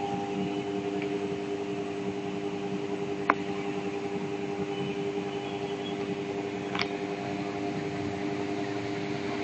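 Electric fan motor running with a steady hum, with one sharp click about three seconds in.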